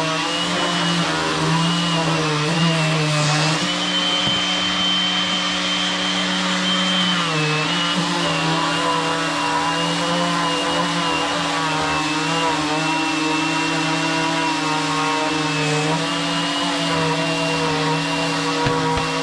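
Electric sander running on wood, with a DeWalt Flexvolt dust extractor running with it. The motor whine is steady, its pitch shifting slightly a few times.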